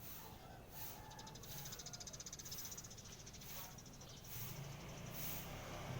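A bird calling in a fast, high-pitched chattering trill for about two seconds, over a low traffic hum that grows louder near the end.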